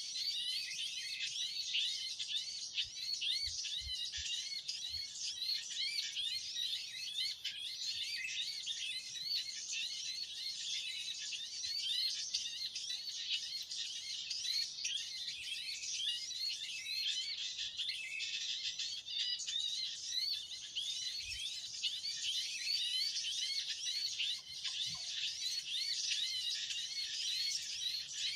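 Dense, continuous high-pitched chirping of many small birds, with rapid overlapping short notes and no pause.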